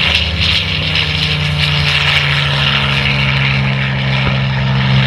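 Curtiss P-40N Warhawk's Allison V-1710 V12 engine running loud and steady in flight, its pitch dropping slightly about two seconds in.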